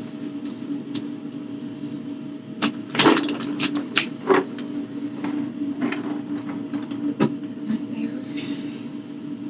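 Knocks and clatter of food containers being handled and set down during fridge cleaning, loudest about three to four and a half seconds in, with one more sharp knock near the end, over a steady low hum.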